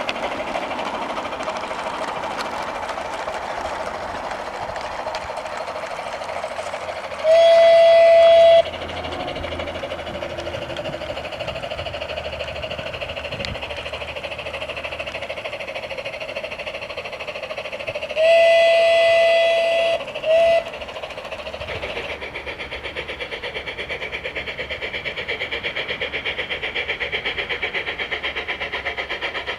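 Electronic steam sound from a Märklin Gauge 1 Gt2 4/4 Mallet tank locomotive model, played through its onboard loudspeaker as it runs: continuous exhaust chuffing. A steady whistle sounds once for just over a second, then later as a long blast followed by a short one. In the last third the chuffing settles into a quicker, even beat.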